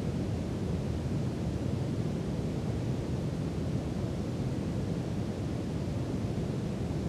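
Steady brown noise: an even, deep rumbling hiss, strongest in the low end and fading off toward the highs, with no changes.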